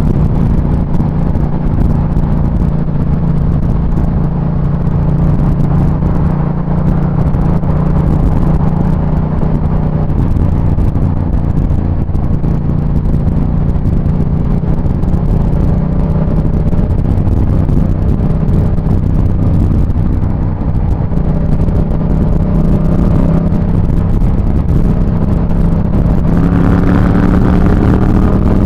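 Motorcycle engine running steadily while riding, with road and wind noise underneath; its pitch rises near the end as it accelerates.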